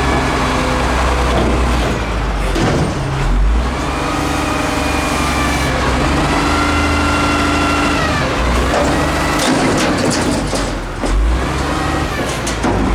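Peterbilt 310 front-load garbage truck's engine revving up and down, its pitch rising and falling several times, with a series of sharp clanks late on.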